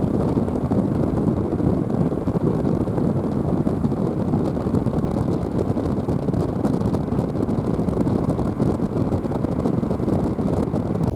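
Strong wind buffeting the microphone, a steady, loud low rush with no distinct events.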